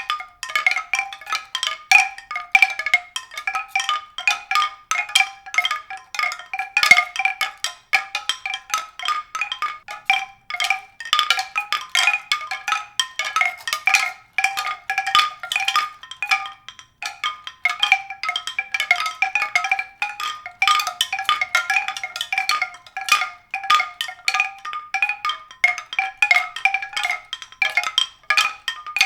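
Tuned percussion struck rapidly and continually, several bright notes a second at a few recurring pitches.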